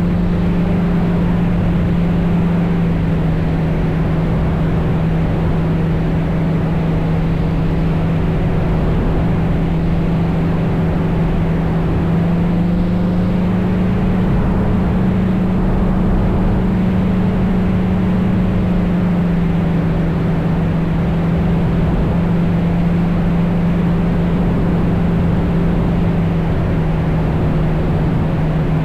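Small helicopter running: a loud, steady hum whose pitch rises slightly about midway and settles back down.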